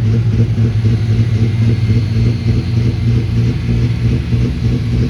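Pulling truck's engine running steadily with a deep, low drone.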